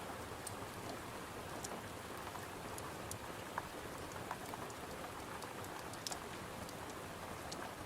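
Steady rain with scattered small sharp crackles and ticks over it.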